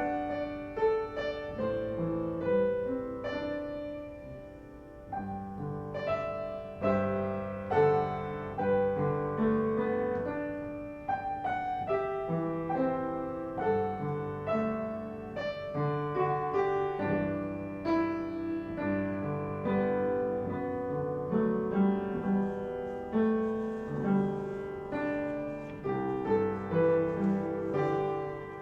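Piano music: a single piano playing a slow succession of chords and melody notes, each note struck and left to fade.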